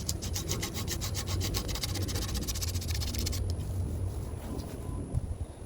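60-grit sandpaper rubbing on an aluminium bicycle frame tube in rapid, even strokes, stopping about three and a half seconds in.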